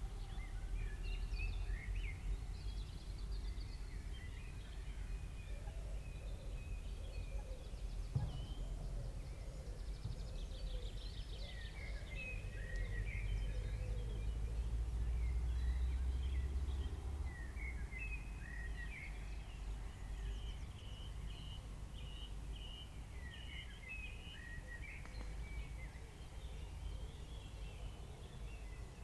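Birds chirping over a low background rumble that swells for a few seconds about halfway through.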